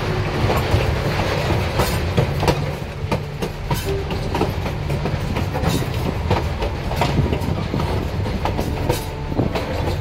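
Durango & Silverton narrow-gauge passenger train running along the track, heard from an open-sided car: a steady rumble with frequent sharp clicks and clacks from the wheels over the rails.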